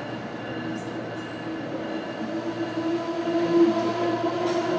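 Amtrak Northeast Regional train pulling into the station: a steady, high squeal from the train grows louder over the rumble of the wheels as it comes in.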